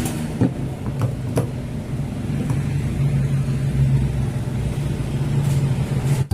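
A motor or engine running steadily with a low, even hum, with a few sharp clicks in the first second and a half.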